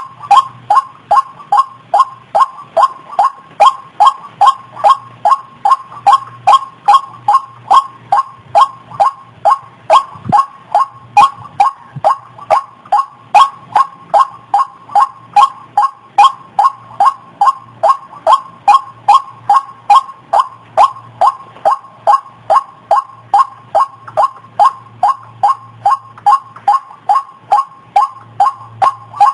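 White-breasted waterhen calling: a loud, unbroken run of short, falling 'ruak' notes, about two and a half a second, with a faint low hum coming and going underneath.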